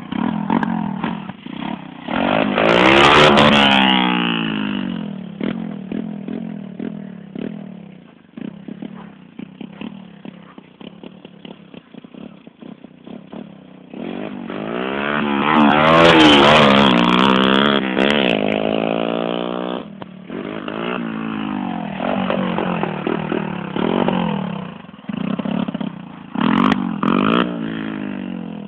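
125 cc dirt bike engine revving hard in repeated surges, its pitch climbing and falling as it passes close: a short burst about three seconds in, a longer pass in the middle, and quick blips near the end, with quieter running between.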